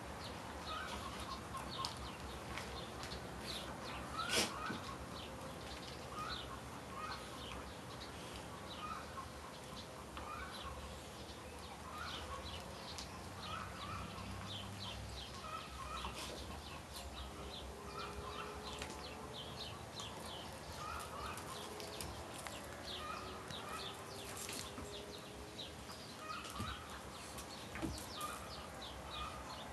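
Birds calling in the background: one call repeating about once a second, with quick high chirps over it. A single sharp click comes about four seconds in.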